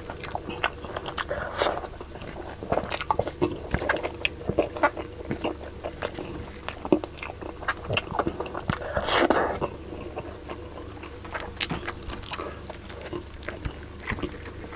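Close-miked chewing and biting of sinigang na baboy, pork and vegetables in sour broth: many quick wet clicks and crunches, with one longer, louder wet noise about nine seconds in.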